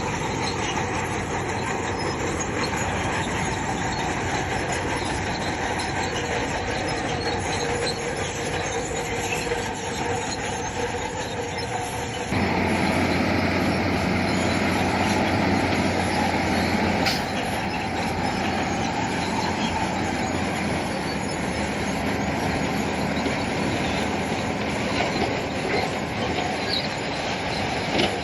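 Crawler bulldozer working, its diesel engine running under the squeal and clank of its steel tracks. About twelve seconds in the sound changes abruptly and gets louder.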